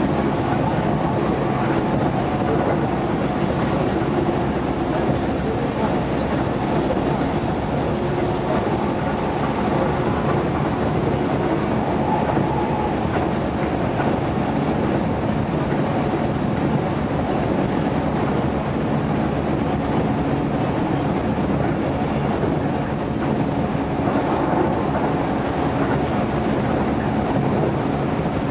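Keihan electric train running along the line, heard from inside the front cab: a steady running noise of wheels on rails with a faint steady hum through it.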